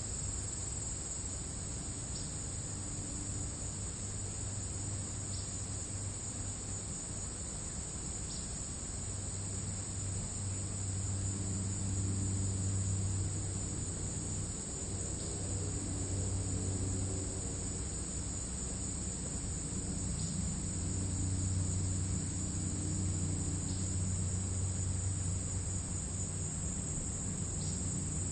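Crickets in grass trilling steadily and high-pitched, with faint short chirps every few seconds. Beneath them a low rumble swells about a third of the way in and again past the middle.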